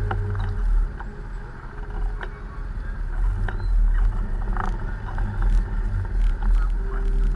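A motorbike riding along a road: a low, uneven rumble of engine and road noise, with scattered short clicks.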